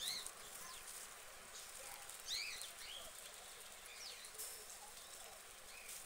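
Birds chirping: a few short, high, arched call notes, loudest about two seconds in, over a steady background hiss.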